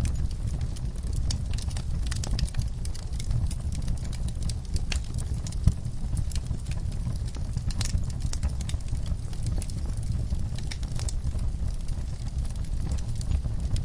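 Wood fire crackling, with irregular sharp pops and snaps over a steady low rumble. One pop about six seconds in is louder than the rest.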